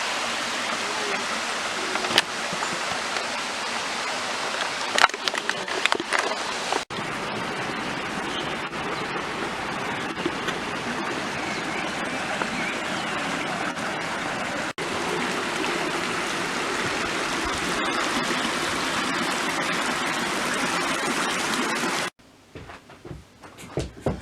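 Waterfall's water rushing in a steady hiss, with a few brief knocks early on; the sound cuts off suddenly near the end.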